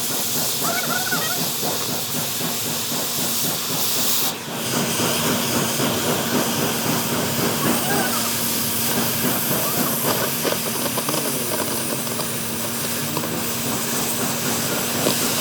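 Steady loud hiss with a constant low hum, dipping briefly about four seconds in.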